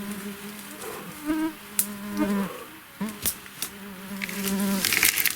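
A fly buzzing close to the microphone: a steady, slightly wavering drone that breaks off for a moment in the middle and ends near the close, with a few sharp knocks among it.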